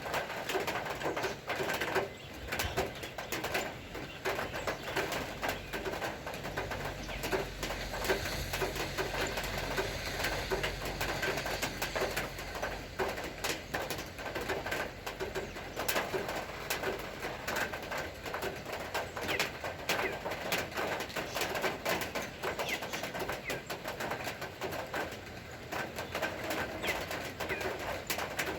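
Steady rain falling, a dense patter of drops, with a bird calling over and over.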